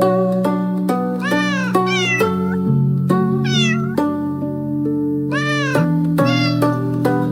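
A kitten meowing about five times, short rising-and-falling calls, over background music of held notes.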